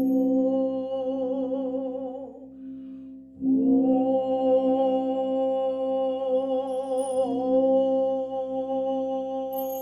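A woman humming long sustained notes with a slight vibrato, breaking off for a breath about two and a half seconds in before holding another long note.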